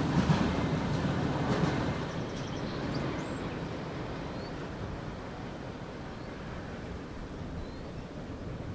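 Train on the BNSF main line moving away, its rumble and wheel noise fading steadily over the first few seconds into a low distant rumble.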